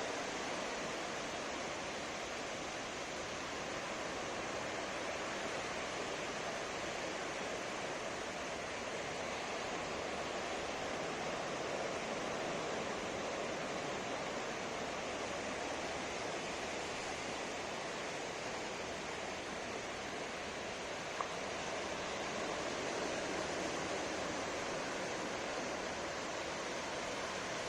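Ocean surf on a beach: a continuous wash of breaking waves, swelling and easing gently. A single short tick cuts through once, late on.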